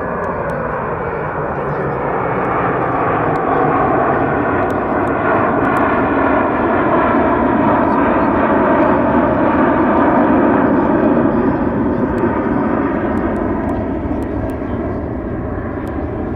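Jet airliner taking off: a loud engine roar that builds to a peak about ten seconds in, then fades as the plane passes.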